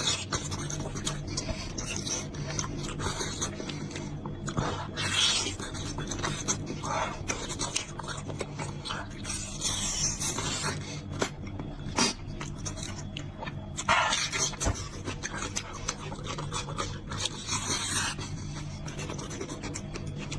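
Close-up eating sounds of a person chewing soft, gelatinous beef trotter: wet mouth noises and frequent small clicks, with louder bursts about every four or five seconds, over a steady low hum.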